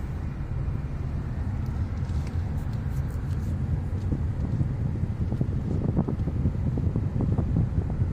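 A car being driven: a steady low engine and road rumble, with a few short knocks in the second half.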